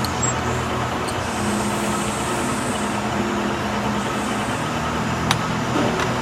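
Steady mechanical running noise with a low, even hum, and a single sharp click about five seconds in.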